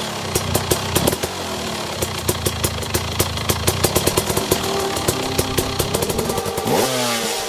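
Dirt bike engine running, with many sharp clicks and crackles over a steady drone, and a brief sweep in pitch near the end.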